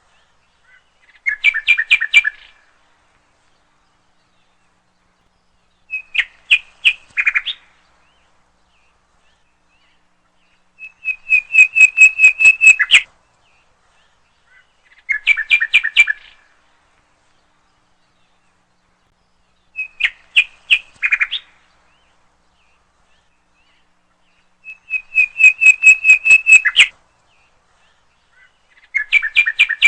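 A bird singing a short phrase of rapid, clipped whistled notes, about six a second, then falling silent and repeating the phrase every four to five seconds.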